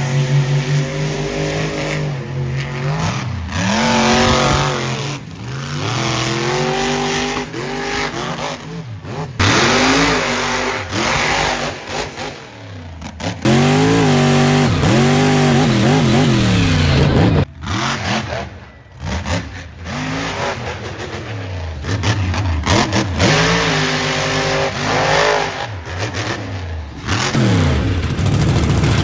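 Monster truck engine revving hard, its pitch rising and falling again and again, in short sections that cut abruptly from one to the next.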